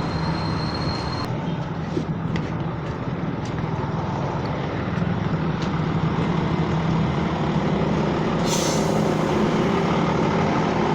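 Truck engine running steadily at idle, with a short burst of hissing air about eight and a half seconds in.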